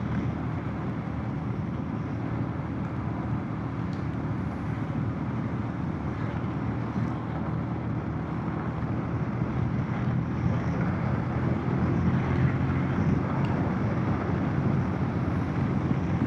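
Motorcycle engine running steadily, with an even rushing noise over it; it grows somewhat louder from about ten seconds in.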